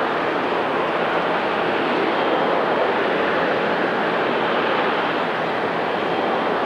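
Jet engines of a widebody airliner running steadily: an even rushing noise with a faint high whine.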